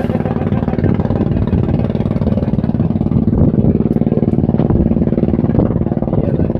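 A small engine running steadily, with a fast even firing beat.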